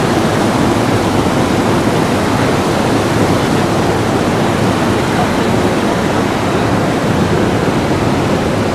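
Airbus A320 jet engines on the runway making a loud, steady roar with no breaks or distinct events.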